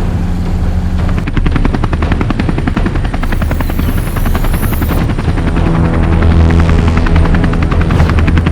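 A vehicle sound effect: a rapid, even chopping that starts about a second in over a steady low engine drone.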